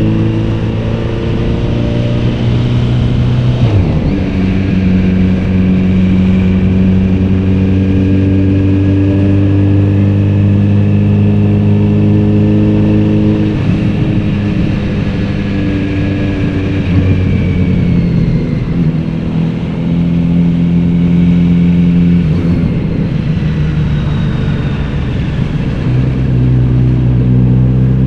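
Kawasaki Z900RS inline-four with a Beet aftermarket exhaust running under way, heard from the rider's seat. The exhaust note holds a steady pitch for stretches of several seconds and steps to a new pitch about five times as the throttle and gears change.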